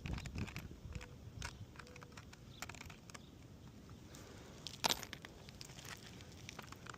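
Light crackling, crunching and scraping of work on an asphalt shingle roof, with one sharp knock about five seconds in.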